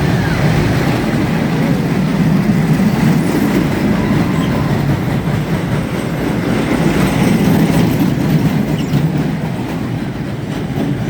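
Amusement-park dragon ride in motion, its cars making a loud, steady rumble along the track.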